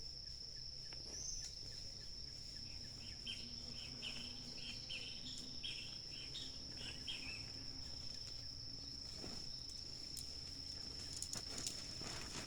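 Night insects: a steady high-pitched cricket trill. A few seconds in, a quick series of about ten short chirping calls at a lower pitch plays over it.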